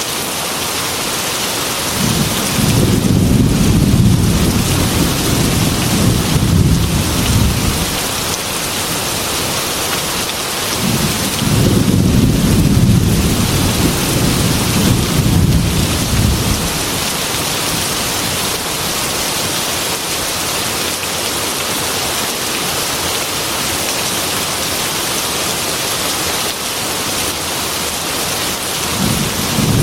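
Heavy rain beating steadily on a glass window, with thunder rolling twice: a long low rumble from about two seconds in, another from about eleven seconds in, and a third starting right at the end.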